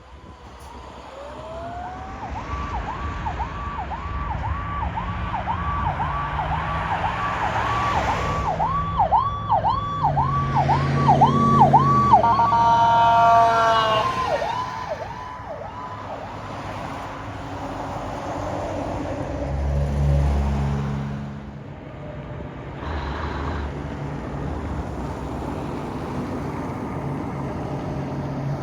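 Fire apparatus siren rising and then wailing in a fast up-and-down yelp, about two sweeps a second, as the truck approaches. About halfway through, a loud multi-tone horn blast sounds over it. After that the siren fades and the heavy truck's engine rumbles past.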